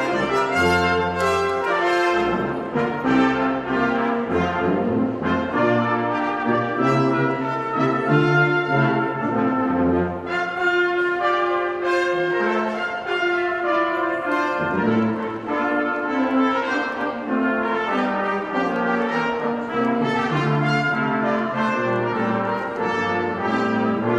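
Instrumental music led by brass, several horns playing chords together in a moving, continuous tune.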